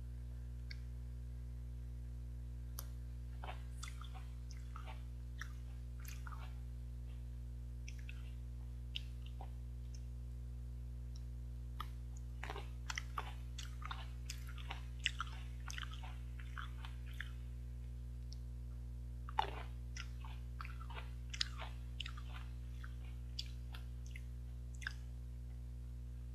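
A person chewing and biting green grapes close to the microphone: irregular wet clicks and snaps coming in spells, over a steady low electrical hum.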